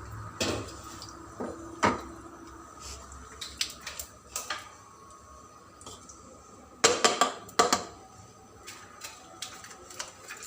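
Kitchen cookware and utensils clinking and knocking, scattered single clinks with a quick run of louder knocks about seven seconds in.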